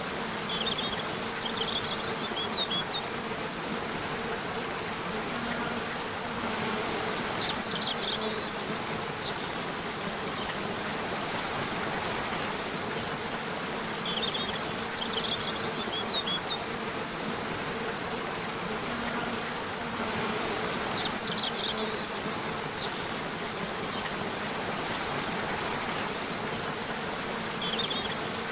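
Nature soundscape: a steady rush of flowing water with an insect buzzing, and a short cluster of high chirps recurring about every six to seven seconds.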